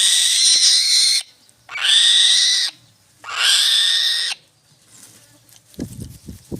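An eagle giving three harsh, screeching calls, each about a second long with a short rising start, followed near the end by a run of dull low knocks.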